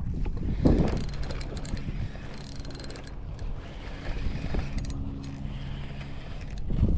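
Steady mechanical whirring of a small geared mechanism, holding one pitch for several seconds, with a knock about a second in and another near the end.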